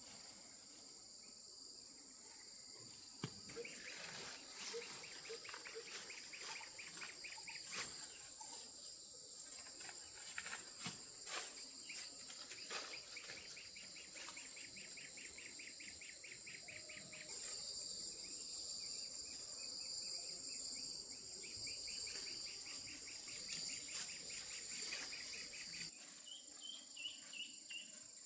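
A steady high-pitched insect chorus, with rapid pulsed trills coming in for several seconds at a time and a few short chirps near the end. Scattered sharp knocks and clicks sound over it.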